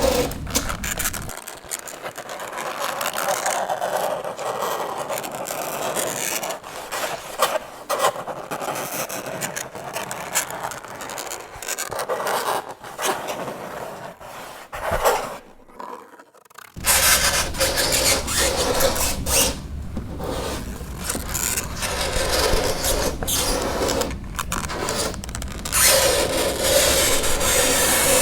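Fingernails scraping across a chalkboard in repeated rasping strokes, with a brief pause about halfway through.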